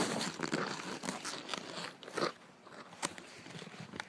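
Close rustling and crunching handling noises with scattered sharp clicks, busiest in the first two seconds and then fainter.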